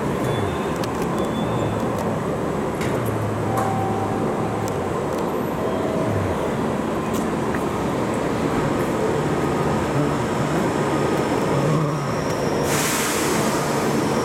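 JR Central 315 series electric train standing at a station platform, its equipment humming steadily among platform noise. About three-quarters of the way through, a loud hiss sets in as the train gets ready to leave.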